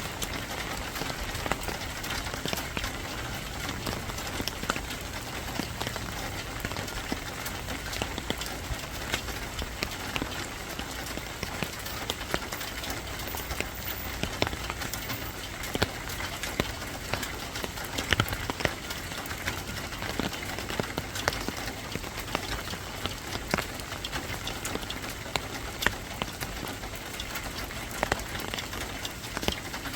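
Steady rain falling, a continuous hiss with many separate drops tapping sharply on a hard surface.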